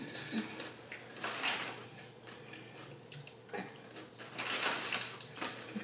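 Close-up chewing of raw carrot sticks: scattered crunches and wet mouth noises, with two longer noisy stretches about a second in and around four and a half seconds in.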